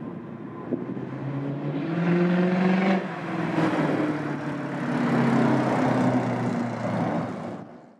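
Lexus SC400's V8 engine accelerating as the car drives through a lot: the engine note climbs, drops about three seconds in, climbs again, then eases off and fades out near the end.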